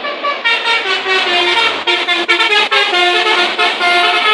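A bus's multi-tone musical 'telolet' horn playing a quick melody, the notes stepping up and down several times a second.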